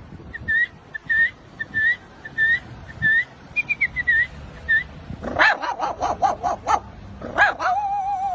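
Man doing a vocal impression of a dog. First comes a row of short, high whimpering chirps, then a quick run of yelping barks, and near the end a drawn-out whine that falls in pitch.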